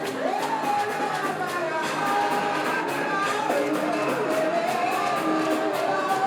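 Live church worship music: instruments playing over a steady beat, with voices singing.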